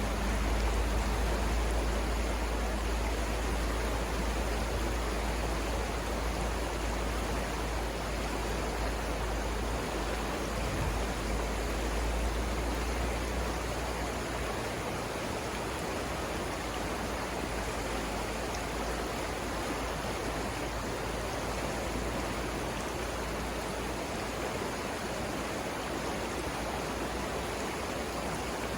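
Savannah River water rushing over rapids: a steady, even wash of flowing water. A deep low rumble under it eases off about halfway through.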